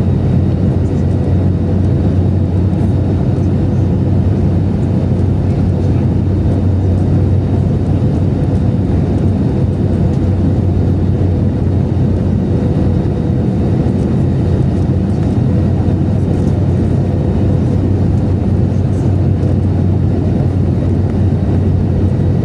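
Steady cabin noise inside an Airbus A321neo airliner in flight: a constant low rumble of the engines and the airflow over the fuselage, with a faint steady hum above it.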